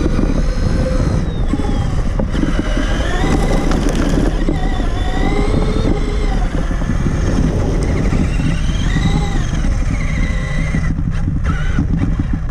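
Traxxas Summit RC truck's electric motor and geared drivetrain whining, the pitch rising and falling again and again with the throttle, over a heavy rumble and rattle from the chassis and tyres on rough ground, heard through a camera mounted on the truck.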